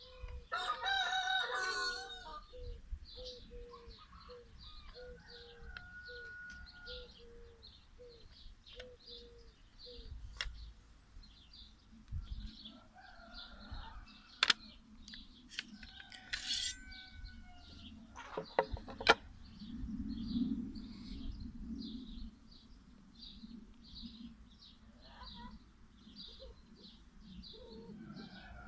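Outdoor bird calls: one loud, drawn-out call about a second in, a falling series of short notes over the next several seconds, and steady quick chirping throughout. A few sharp clicks stand out in the middle.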